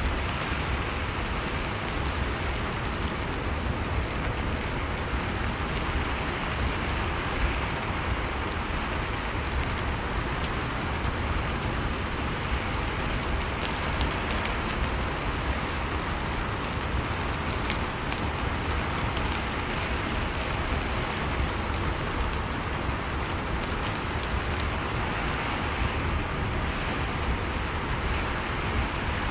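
Steady rain falling, an even hiss with scattered drop patter and no let-up.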